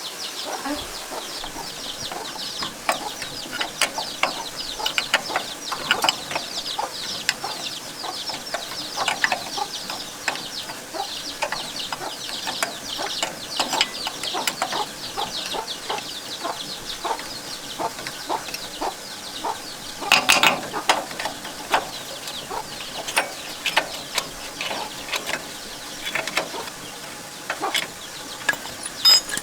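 Chickens clucking and chirping, with scattered clicks and clinks of metal tools being handled; a louder run of sharp clatter about twenty seconds in.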